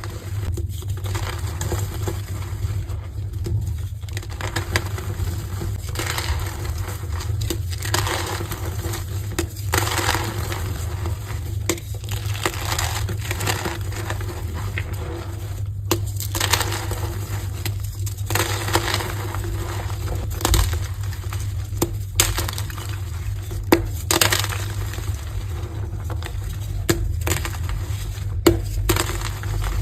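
Pressed gym chalk hearts being crushed and broken: a continuous run of crunching with sharp snaps, a few louder cracks near the end.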